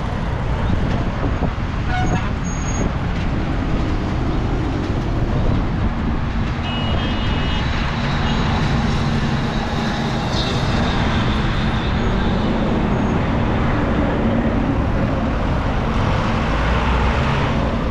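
Busy road traffic: vehicle engines running steadily, with a short horn toot about seven seconds in.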